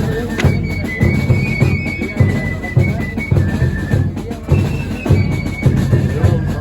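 Religious dance band playing: bass drums and other drums beating a steady driving rhythm under a high piped melody of held notes.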